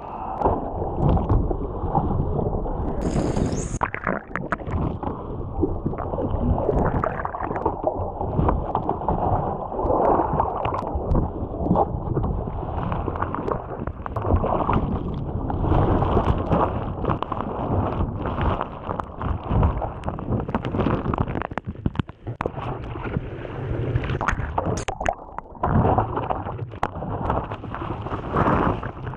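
Churning, sloshing surf water heard close up, muffled, with constant rushing and many knocks and surges as breaking waves tumble the surfer.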